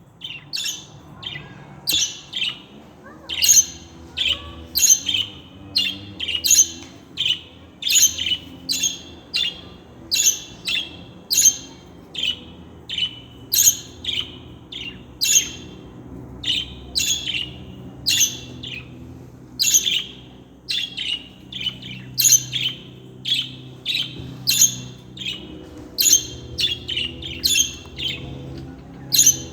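Pet budgerigars chirping: a steady run of short, sharp high calls, about one and a half a second.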